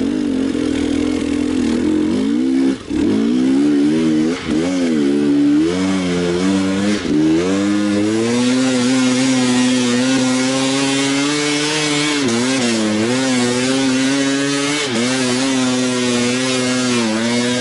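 Enduro motorcycle engine revved hard, its pitch swinging up and down over the first several seconds and then held high and steady with brief dips, while the bike does not pull away; the rider puts it down to something wrong with the clutch.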